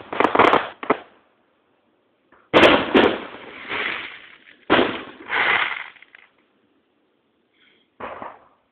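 Aerial firework shells bursting overhead: a series of loud booms in quick groups, each trailing off, with a smaller burst near the end.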